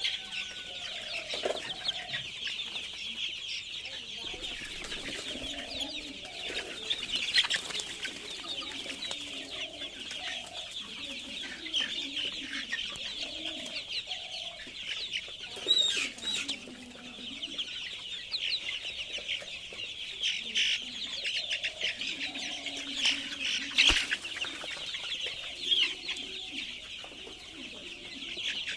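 A flock of Egyptian Fayoumi chickens: a dense, continuous chorus of high-pitched peeping, with lower clucks every second or two and a few sharp knocks.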